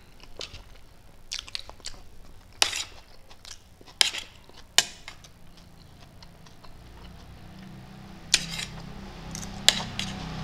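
Close-up mouth sounds of a person chewing a mouthful of rice: scattered wet smacks of the lips and tongue, one every second or so, some louder than others.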